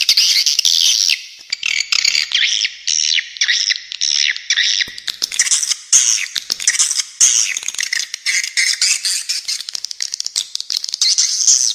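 Recorded spiderhunter and swiftlet calls, layered into a dense, continuous stream of rapid, high-pitched chattering and squeaky notes with only very brief gaps.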